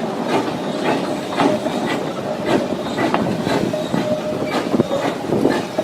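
Train running along the track: cars rattling, with irregular knocks and clacks about twice a second and a faint steady high tone through the middle.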